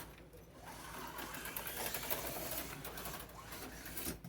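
Steady whir of HO-scale slot car electric motors running on the track.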